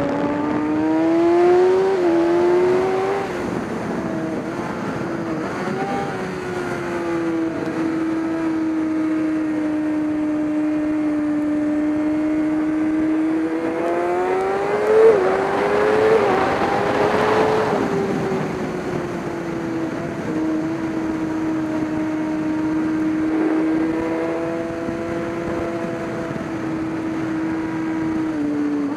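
Race car engine running at mostly steady revs, with its pitch climbing and then dropping sharply twice: about two seconds in, and again around the middle, as the driver shifts or lifts.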